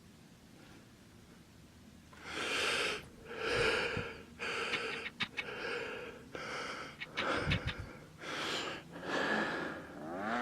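A person breathing heavily close to the microphone: after two quiet seconds, a run of loud, noisy breaths in and out, about one a second.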